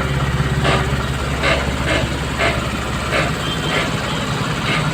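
Heavy truck diesel engine running steadily with a low hum. A string of short, higher sounds comes over it about twice a second.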